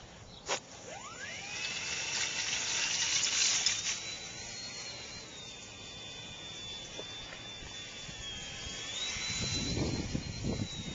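Electric motor of a small radio-controlled aircraft spooling up with a rising whine, then running at a steady high whine that wavers slightly with the throttle. Wind buffets the microphone near the end.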